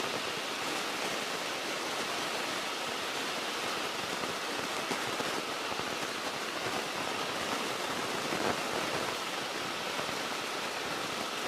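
Steady engine and propeller noise in the cabin of a Beechcraft Musketeer single-engine light plane during a full-power climb, heard as an even hiss with little deep rumble.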